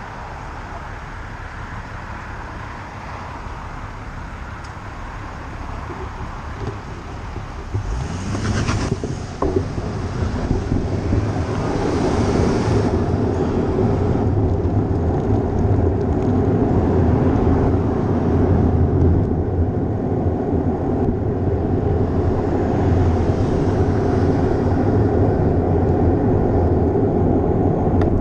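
Wind and road noise on a bicycle-mounted action camera while riding. A vehicle passes about a third of the way in, and after that the rushing grows louder and heavier in the low end and stays so.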